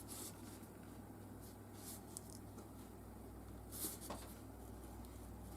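Craft knife blade cutting through paper-backed craft foam: a few short, faint strokes. The blade is somewhat blunt.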